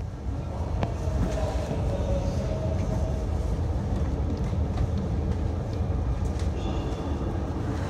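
Tohoku Shinkansen train rumbling steadily, with a faint tone in the first few seconds and a few light clicks.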